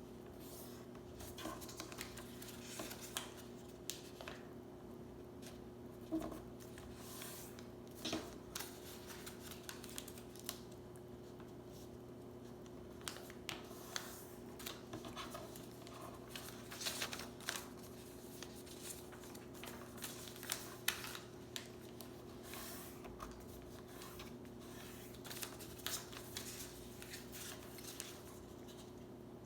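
A sheet of paper being handled and folded into a paper airplane by hand: irregular rustles, crinkles and soft taps as it is creased and pressed, over a steady low hum.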